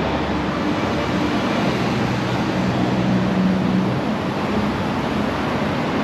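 Steady vehicle noise: a constant rush of traffic with a low engine hum.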